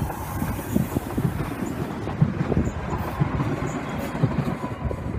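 ÖBB Talent electric multiple unit passing close by, its wheels knocking and clattering irregularly over the track.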